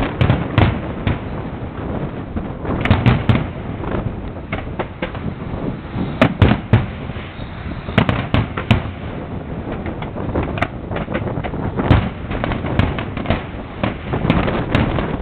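Fireworks display going off: a dense, irregular run of bangs and crackles, with louder single bursts every second or two, the strongest about six seconds in and again near twelve seconds.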